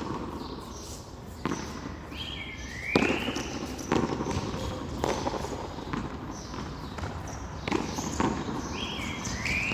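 Hand-ball rally on a frontón: sharp smacks of the rubber ball struck by hand and hitting the wall, about one a second, the loudest about three seconds in.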